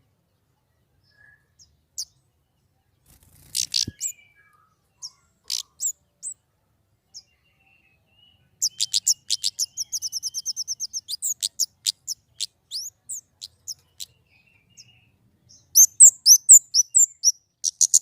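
Small songbird singing high, sharp chirps: scattered single notes at first, then about nine seconds in a fast trill of repeated notes for some three seconds, and near the end a quick burst of twittering.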